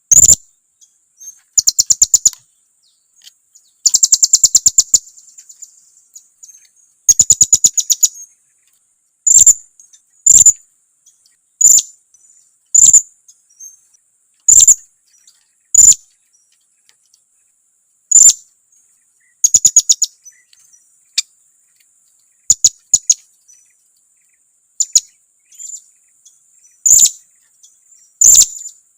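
Blue-crowned hanging parrot (serindit) calls used as a lure to provoke other serindits: loud, high, sharp chirps, with a few quick trilled runs in the first several seconds, then single chirps about once a second.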